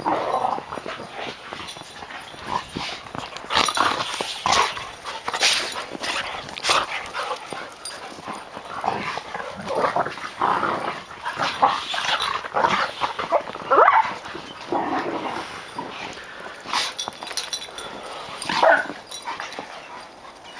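Airedale terriers playing, giving scattered short yips and whimpers, some rising in pitch, amid many sharp clicks and rustles.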